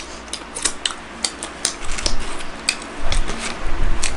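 Close-up eating sounds: chewing with irregular wet mouth clicks and smacks, about three to four a second.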